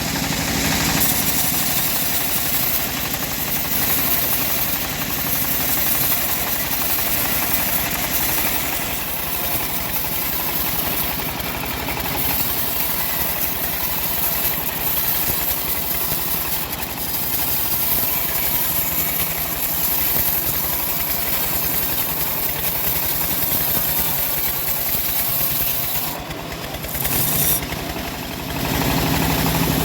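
Engine of a homemade bandsaw mill running steadily under load as the band blade saws through a log. Near the end the level dips briefly, then the engine settles into a steadier idle-like hum.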